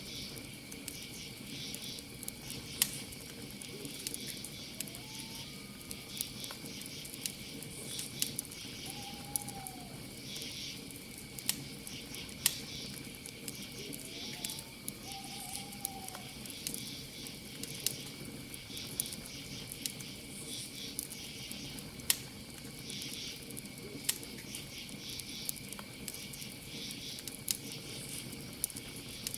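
Campfire crackling with frequent sharp pops, over a steady chorus of crickets chirping in pulses. A few faint short calls sound in the middle, around 5 s and 15 s in.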